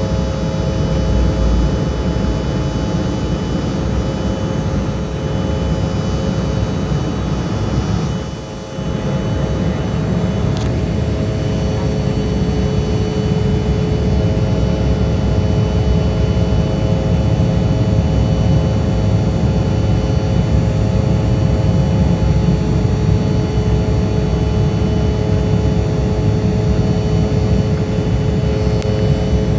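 Jet airliner engines heard from inside the passenger cabin, running steadily: a constant rush with several steady whining tones. The sound briefly drops a little about eight seconds in.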